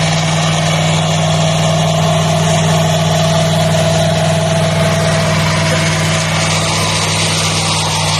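A car's rebuilt 390 V8 engine running steadily at an even speed, with no revving.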